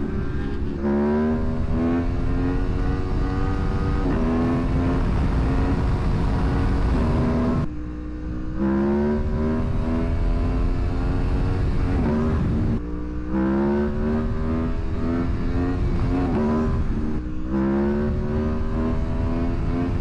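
Aprilia Tuono motorcycle engine pulling hard through the gears. Its pitch climbs, then drops at each upshift, about every few seconds, with a couple of brief lulls when the throttle is rolled off. Wind rumble runs underneath.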